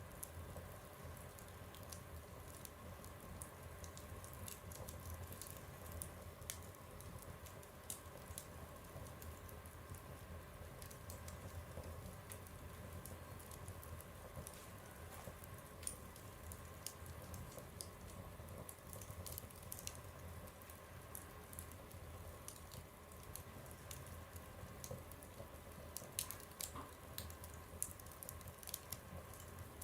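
Fire burning in a stove, crackling faintly with scattered small pops over a low steady rumble. A few louder pops come near the end.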